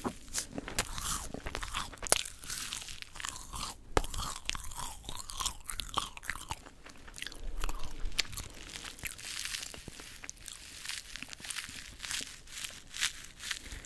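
Yugwa, a puffed-rice-coated Korean rice cracker, crunching and crackling close to the microphone as it is bitten and chewed. It makes many small sharp crackles, with louder snaps about two and four seconds in.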